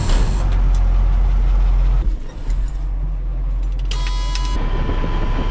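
Vehicle engine running with a heavy low rumble that dips briefly about two seconds in. About four seconds in comes a short rattling burst, after which a thin steady whine sits over the engine.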